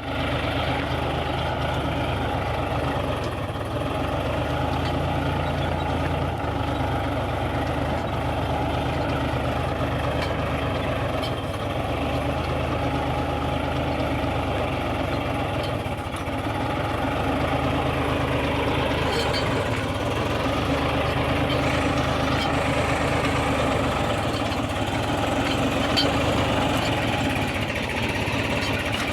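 Farmtrac Champion 41 tractor's three-cylinder diesel engine running steadily under load, growing a little louder in the second half.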